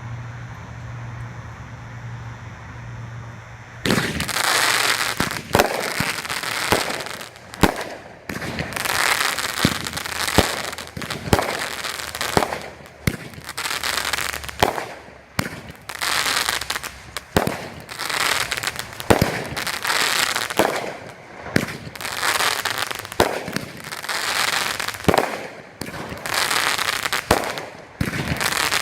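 Heavy Metal 500-gram fireworks cake by Firehawk firing, starting about four seconds in after a steady low hum. It fires shot after shot, about one every second or two. Each shot is a sharp launch followed by a crackling tail and a crackling break that hangs on for a second or two.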